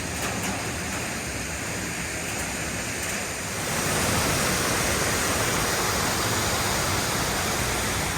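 Waterfall rushing in a steady, dense hiss, growing louder about four seconds in.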